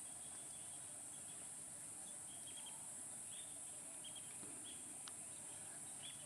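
Faint, steady high-pitched insect drone, with scattered short bird chirps.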